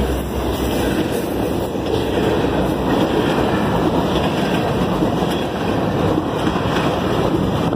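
Freight train cars rolling past close by: the steady noise of steel wheels running on the rails, with no horn or engine note.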